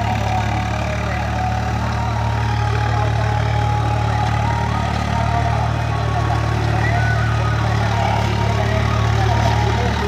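Swaraj tractor's diesel engine running steadily at a constant speed, with no revving.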